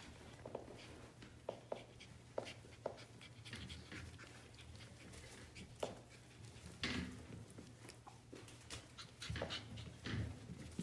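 Biewer terrier puppies moving about and making small dog sounds: scattered light clicks and scuffles, with a few louder brief bursts about seven and ten seconds in. A steady low hum runs underneath.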